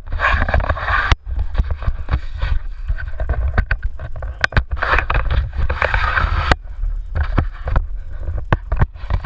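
Water sloshing and splashing around a small electric boat under way, rising in two louder rushes, over a constant low rumble with scattered sharp knocks.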